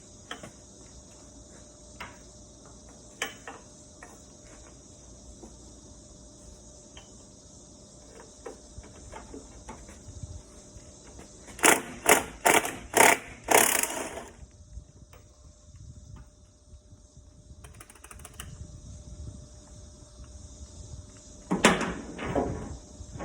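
Hand tools working on metal under the car: scattered clicks and knocks, then a run of about five loud strokes about halfway through and a shorter burst near the end, over the steady high chirping of crickets.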